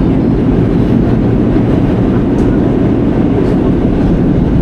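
New York City subway train running, heard on board: a loud, steady low rumble with a faint steady hum.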